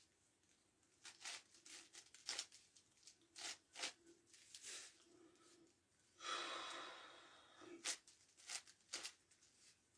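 Faint plastic clicks and clacks of a 9x9x9 Rubik's Cube's layers being turned by hand, in irregular bursts, with a longer scraping rattle of quick turns about six seconds in.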